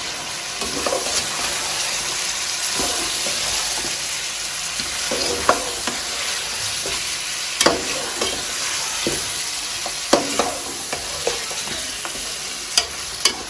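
Chicken frying in hot oil in a cooking pot with a steady sizzle, the chicken's water cooking off, while a spoon stirs in the ginger-garlic paste and knocks against the pot a few times.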